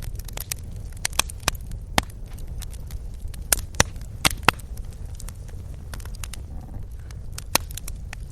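Wood fire crackling: sharp, irregular pops, about ten of them, over a low steady rumble.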